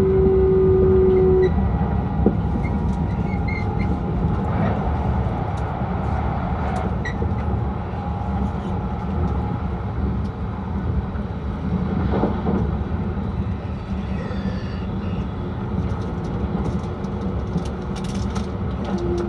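Steady running noise inside the cabin of an E6 series Akita Shinkansen train in motion: an even low rumble from the wheels and running gear. A held tone stops about a second and a half in.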